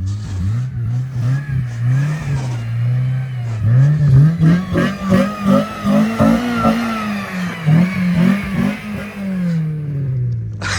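A motor vehicle's engine revving, its pitch rising and falling repeatedly, with pulsing surges through the middle and the highest revs past the midpoint.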